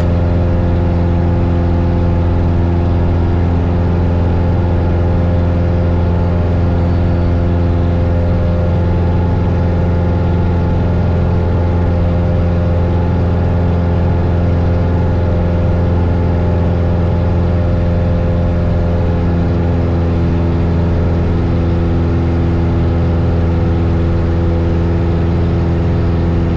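A 1972 Cessna Skyhawk's four-cylinder Lycoming engine and propeller droning steadily in flight, in the traffic pattern after a touch-and-go. The tone shifts slightly about three-quarters of the way through.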